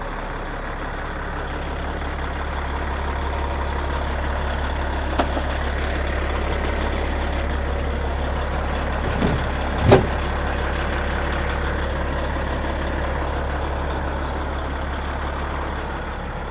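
Diesel semi-truck engine running with a steady low drone that builds a little in level. A faint click comes about five seconds in, and two short, sharp sounds follow just over a second apart near the middle.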